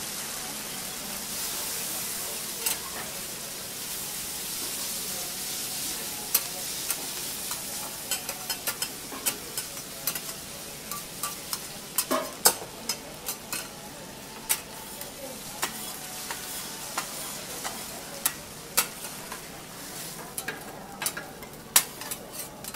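Yakisoba noodles and vegetables sizzling on a hot teppanyaki griddle. From about seven seconds in, metal spatulas clack and scrape against the griddle plate many times as the noodles are tossed and turned.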